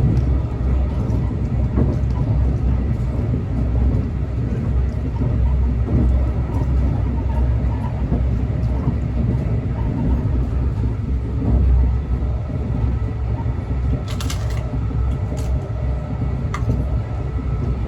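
Steady low rumble of a train, with a faint steady tone above it and a brief sharp sound about fourteen seconds in.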